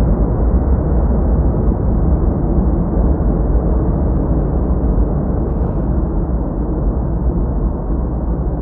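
Boeing 737-800's CFM56 jet engines rumbling, a loud, deep, steady roar that slowly fades toward the end.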